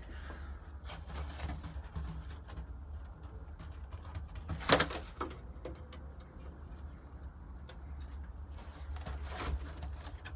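Domestic pigeons cooing over a steady low hum, with one sharp knock or wing clap about halfway through.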